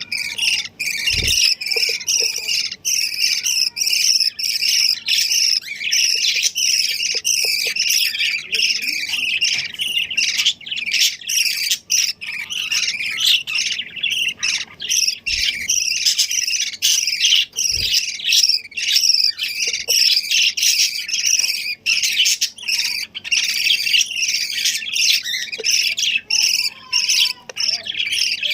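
Many small birds chirping and squawking at once, a dense, unbroken chatter of rapid high calls.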